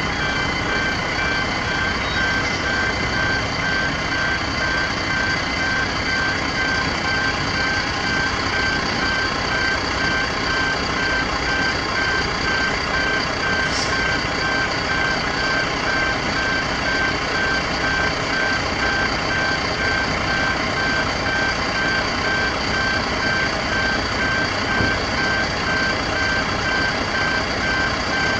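Level crossing warning alarms sounding continuously: the loud, rapidly beeping pedestrian gate alarms, with the crossing's Barker Technics electronic bells barely audible beneath them.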